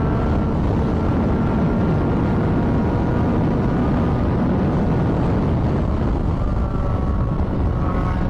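A motorcycle riding on the road, recorded from the bike: a steady, loud run of engine and road noise.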